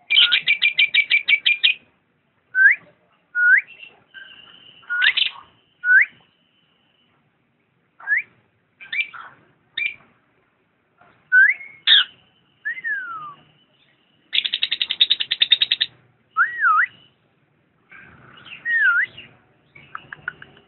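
Lovebird singing: a fast rattling chatter at the start and again about two-thirds through, between short rising whistles, looping slurred notes and a thin held high note.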